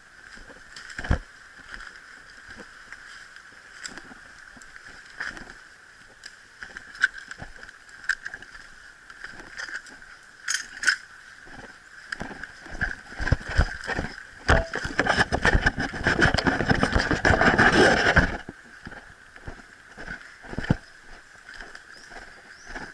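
Irregular rustling, clicks and knocks, with a dense burst of rapid rustling about fifteen seconds in, over a steady high-pitched drone.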